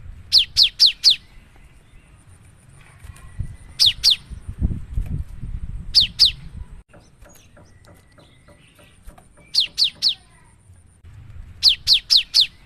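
Cinereous tit (gelatik batu) singing: short phrases of two to four sharp whistled notes, each falling quickly in pitch, repeated every two to three seconds.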